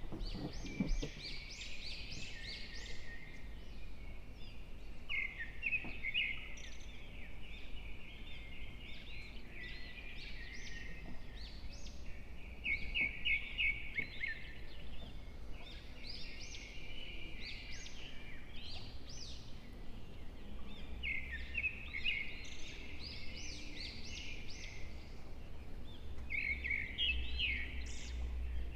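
Small birds chirping and singing, a dense run of quick high chirps and trills with short pauses between phrases, over a faint low hum.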